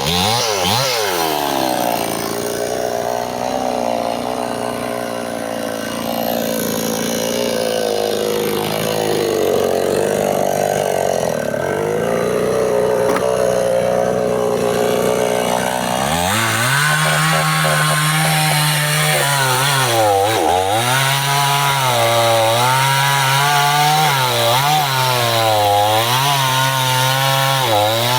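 Stihl two-stroke chainsaw sawing through bendo wood. The engine runs at a lower, wavering speed for the first half, then about halfway through picks up to a higher speed that dips and recovers again and again.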